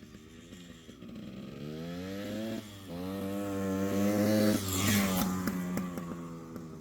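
Yamaha RT100's two-stroke single-cylinder engine on a ride-by. It approaches and revs up, dips briefly about two and a half seconds in as it shifts up, and revs up again as it gets louder. Near five seconds in its pitch drops as it passes, and it fades away.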